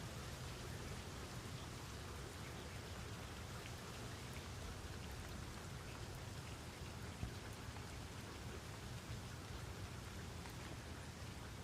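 Steady rain falling, with scattered individual drops ticking through the even hiss and a steady low rumble underneath.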